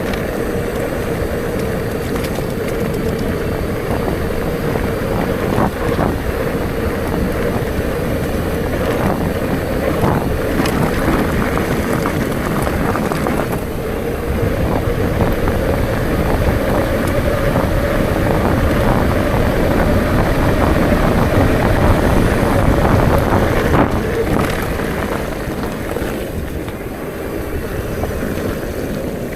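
Bicycle riding at speed: wind buffeting the microphone over rolling tyre noise, with a steady hum that rises a little in pitch midway and small ticks from the road surface.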